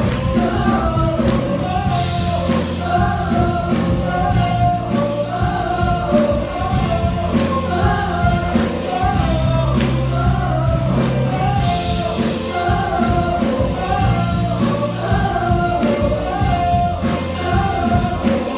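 Gospel music: a choir singing over a band with bass and drums keeping a steady beat.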